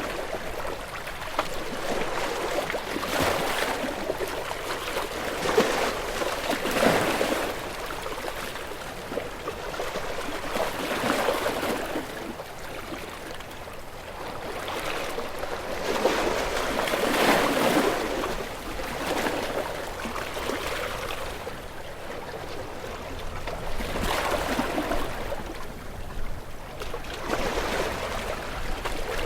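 Ocean waves breaking and washing in, the rush of water swelling and fading in surges every few seconds.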